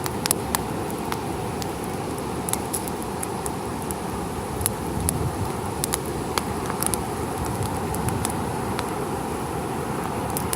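Wood campfire crackling, with scattered sharp pops and snaps over a steady low rush of ocean surf.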